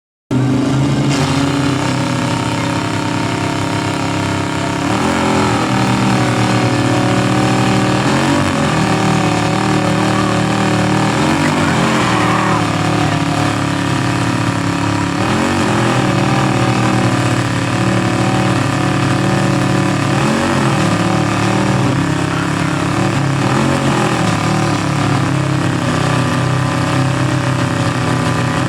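Truck engines running loud and steady, the revs rising and falling every few seconds.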